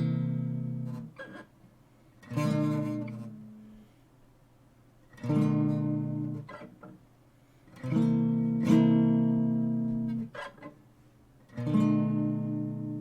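Art & Lutherie Wild Cherry acoustic guitar strummed slowly, one chord at a time, each chord left to ring and fade before the next, about every two to three seconds.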